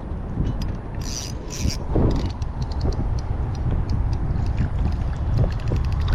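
Fishing reel clicking in a fast, uneven run of ticks as a big buffalo fish is played on light line, over a steady low wind rumble.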